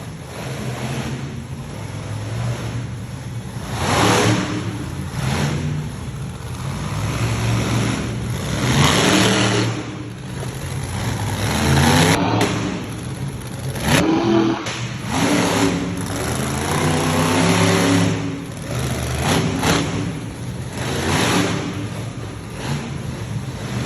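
Monster truck engines revving hard in repeated surges, rising and falling every few seconds. There are a couple of sharp knocks about twelve and fourteen seconds in.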